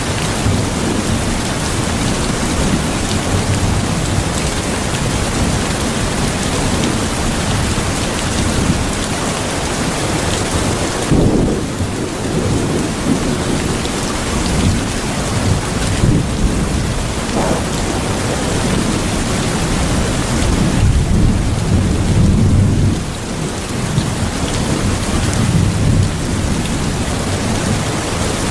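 Steady heavy rain with low rolls of thunder, one swelling about eleven seconds in and a longer one past the twenty-second mark.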